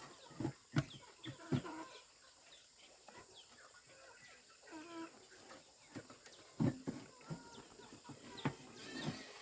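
Chickens clucking with short, scattered calls, among a few sharp knocks, loudest about a second in and again near seven seconds.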